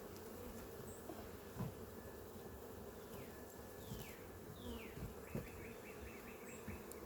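Honeybee colony buzzing steadily around an opened hive, with a few soft knocks as the hive box is handled.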